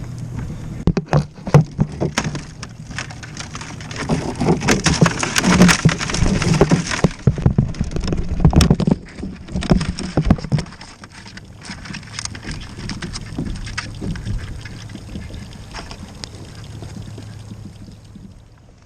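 Rattling knocks and water sloshing against a kayak as a baited crab pot is handled and set back, dense for about the first ten seconds. After that a quieter, steady low hum and hiss.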